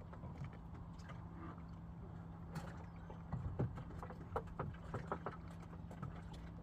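Boat engine running steadily at low revs, with scattered knocks and clatter on deck that get busier about halfway through.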